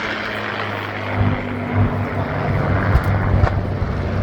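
B-25 Mitchell bomber's two radial engines droning in a low pass, growing louder about a second in. Two brief knocks are heard about three seconds in.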